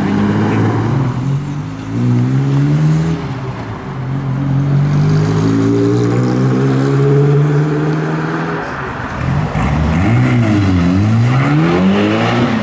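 Car engine revving and pulling away, the revs held high for several seconds, then falling and climbing again near the end.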